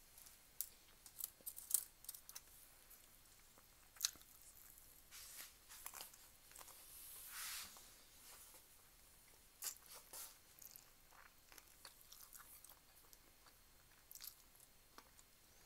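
Faint close-up eating sounds, mostly chewing: scattered sharp, wet mouth clicks, with a longer hiss lasting about a second near the middle.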